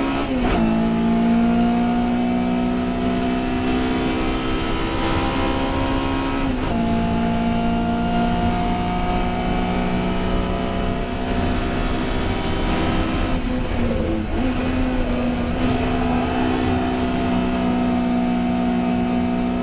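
Historic touring car's engine running hard under race load, its pitch slowly rising as it pulls through the gears, with sudden drops in pitch at gear changes near the start and about six and a half seconds in, and a short dip and recovery about fourteen seconds in.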